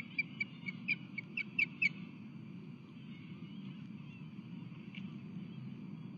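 Osprey calling: a quick series of about ten short, high, whistled chirps over the first two seconds, then it falls quiet over a steady low background rumble.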